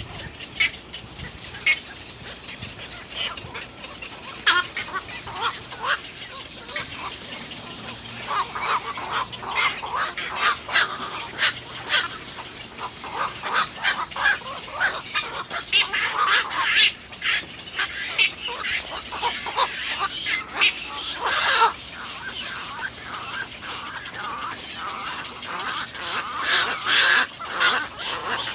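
Little egrets calling at the nest: many short calls in quick succession, busiest in the middle and again near the end.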